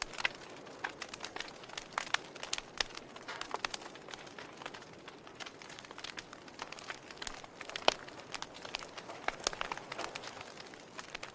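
Fire crackling: irregular small pops and snaps over a soft steady hiss, with one louder pop about eight seconds in.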